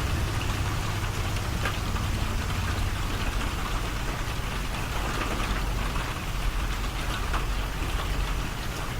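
Steady rain falling, an even patter with a low steady hum beneath it.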